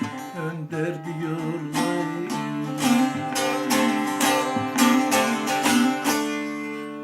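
Closing instrumental of a Turkish folk song: a plucked string instrument strummed in a run of strong strokes, ending on a chord left ringing near the end.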